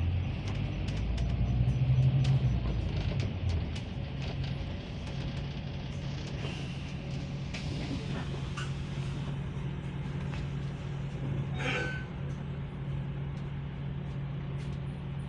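Bus interior: a steady low engine hum that swells about one to three seconds in as the bus pulls away or accelerates, with scattered rattles and creaks from the cabin.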